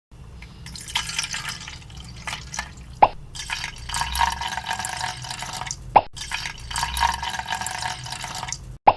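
Water dripping and trickling, with a sharper drop plopping about every three seconds.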